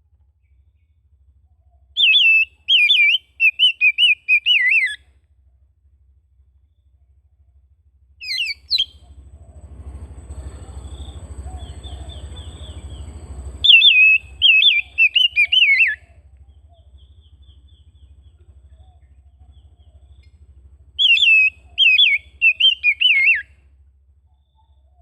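Oriental magpie-robin (kacer) singing: four bursts of rapid, loud whistled notes, one of them very short. Between the second and third bursts a hiss with a thin high tone rises and then cuts off suddenly, over a faint low hum.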